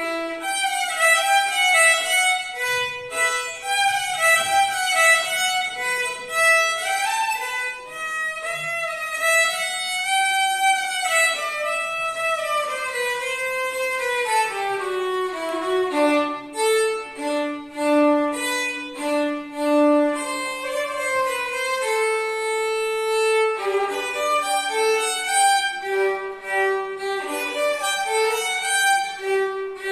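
Violin playing a tune in imitation of birdsong: quick, changing notes with slides between pitches, then longer held low notes in the second half.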